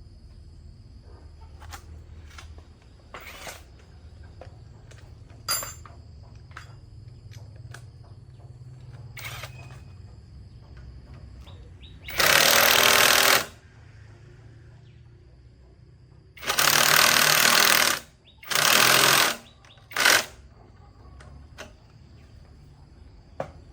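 Four loud bursts of hiss, each about a second or a second and a half long, coming in the second half, between quieter stretches of small clicks and taps.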